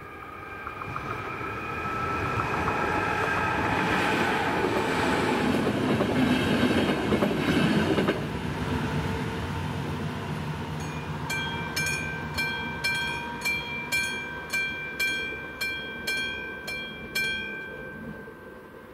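A train passes over the level crossing, rising to its loudest about six to eight seconds in with a steady whine and wheel clatter, then fading away. After that, the crossing's electronic warning bell rings about twice a second and stops near the end as the warning ends.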